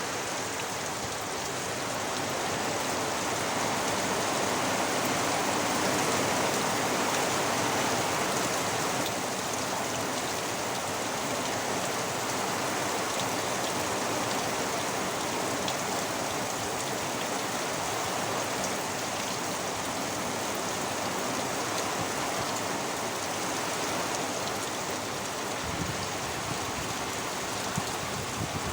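Heavy storm rain falling, a steady dense hiss of downpour that swells slightly for a few seconds and then holds even.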